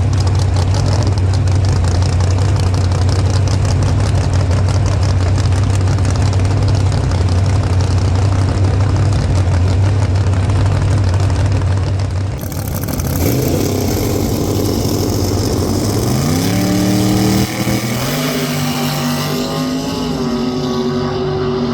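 Drag race car engine heard from inside the car: a steady heavy rumble for the first half, then the sound changes and the engine pitch climbs as it revs up, with a short break and a step in pitch, like a gear change, about three-quarters through, then a steady pull.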